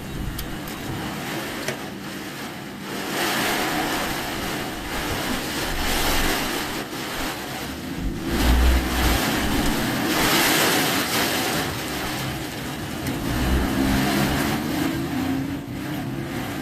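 A car driving on a flooded road in heavy typhoon rain. Steady engine and tyre noise runs under a dense hiss of water and rain that swells louder several times, strongest about eight to eleven seconds in.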